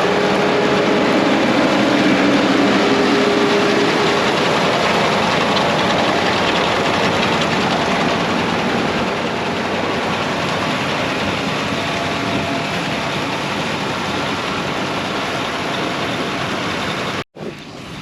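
Combine harvester running steadily, a loud even machine noise with a faint hum that fades over the first few seconds. It cuts out abruptly about a second before the end.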